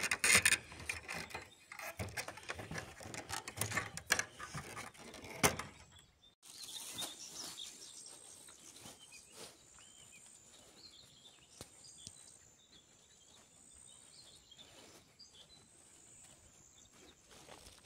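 Dense rustling and crackling of garden plants for the first six seconds, which stops abruptly. After that it is quiet, with faint bird chirps and a steady high tone.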